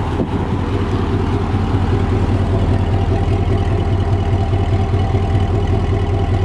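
2007 Chevrolet Corvette's 6.0-litre LS2 V8 idling steadily through long-tube headers and a Corsa exhaust, with a low, even note.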